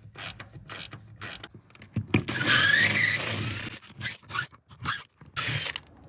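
A long steel bolt being worked out of a pontoon rail: a run of sharp metal clicks and knocks, with a squealing scrape lasting over a second a little before the middle.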